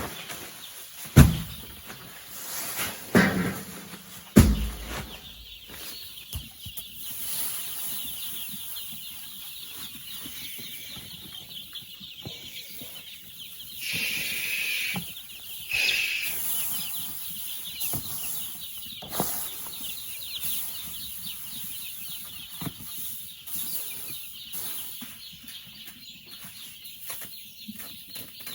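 Chickens clucking and calling, with a steady high chatter throughout and a few loud knocks in the first few seconds.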